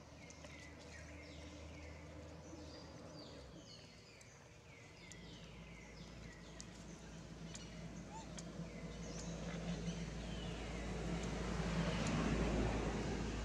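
A bird calls over and over in short downward-sliding chirps, about one or two a second, fading out after about nine seconds. A motor vehicle is heard from about five seconds in, growing louder as it comes near and loudest near the end, then easing off as it passes.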